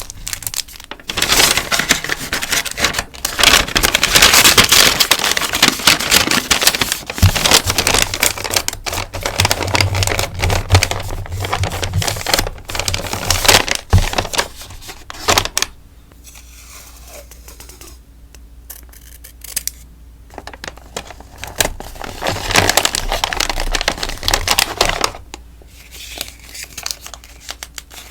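Plastic sticker packaging rustling and crinkling as stickers are handled and packed, close up, with many small taps and clicks. It goes quiet for several seconds past the middle, then the crinkling comes back briefly.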